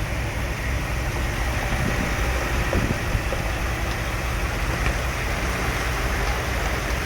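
Heavy transport vehicle's engine running steadily, a low even drone with noise over it.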